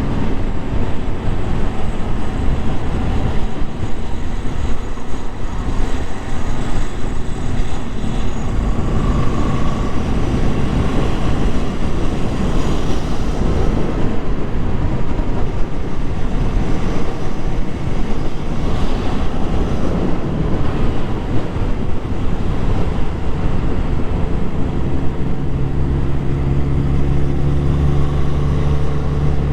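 Motorcycle engine running under way, largely buried in loud wind rumble on the microphone. About 25 seconds in, a steady low engine note comes forward as the bike eases to a more even speed.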